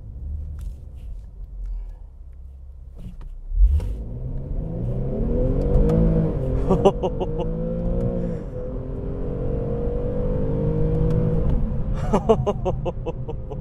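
2015 Infiniti Q60's 3.7-litre naturally aspirated V6 heard from inside the cabin. It rumbles low for about three and a half seconds, then revs up hard under full acceleration, its note climbing and dipping three times as it changes up through the gears.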